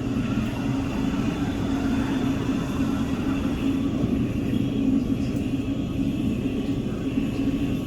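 A propeller airplane's engine running steadily: a continuous low rumble with a steady hum.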